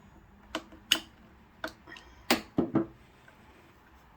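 Sharp, irregular clicks and taps of small metal parts in a Kenmore sewing machine's zigzag mechanism being worked loose by hand, about six in all, the loudest a little after a second in and a cluster past the halfway mark.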